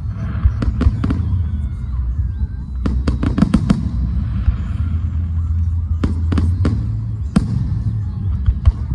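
Fireworks going off: sharp cracks and bangs at irregular intervals, including a rapid crackling string of about seven reports some three seconds in and another cluster about six seconds in, over a steady low rumble.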